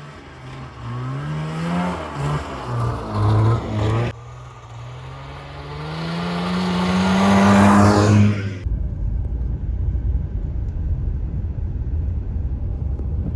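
Old snowmobile engine revving, its pitch climbing and dropping several times, then rising in one long climb to its loudest just past the middle. It then switches abruptly to a steady low rumble.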